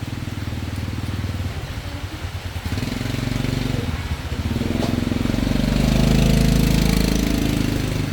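Motorbike engines running close by, one growing louder to a peak about six seconds in and then easing off as it passes.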